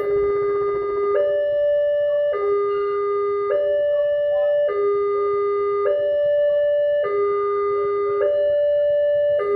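Railway level-crossing warning alarm sounding, an electronic two-tone signal that alternates a low and a higher note, each held a little over a second, in a steady repeating pattern. It signals that the crossing is closing for an approaching train.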